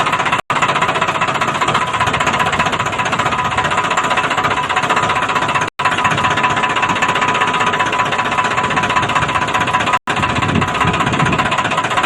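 Tractor engine running steadily under load with a rapid, dense clatter, broken by three brief silent gaps: about half a second in, near the middle and about ten seconds in.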